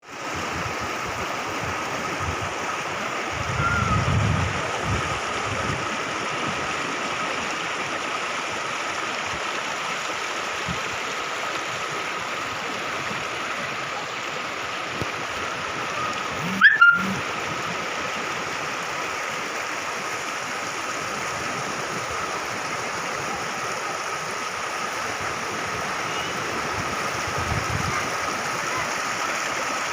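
Floodwater rushing steadily, a continuous watery noise with a faint steady tone through it. There is a short low rumble about four seconds in and a brief sharp knock just past halfway.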